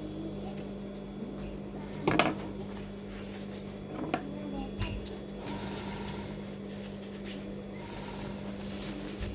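A steady low hum, with a loud short clink about two seconds in and a lighter knock about four seconds in.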